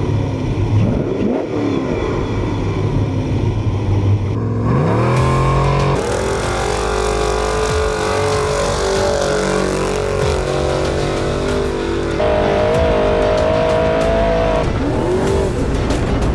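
Desert off-road race truck engines revving and accelerating, the pitch climbing and falling. The sound changes abruptly a few times as the shots change.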